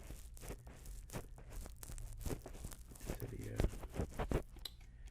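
Close-up crunching and creaking of styrofoam as an in-ear binaural microphone is squeezed into the carved ear hole of a styrofoam mannequin head. It makes a dense run of irregular crackles and scrapes, with a few sharper, louder cracks a little past the middle.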